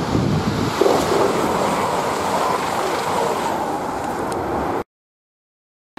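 Passenger train passing at speed close by: a loud, steady rush of wheel and air noise, cut off abruptly about five seconds in.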